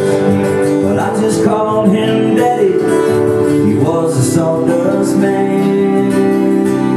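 Twelve-string acoustic guitar strumming chords in a country song's instrumental close, the last chord, struck about four seconds in, left ringing.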